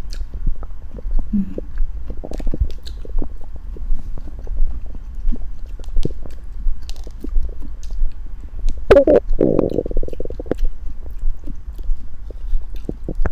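Stomach and bowel sounds during a meal: a low steady rumble with many short gurgles and clicks, and one longer, louder gurgle about nine seconds in.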